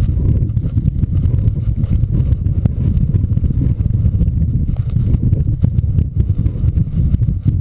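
Strong wind buffeting the microphone: a loud, fluttering low rumble.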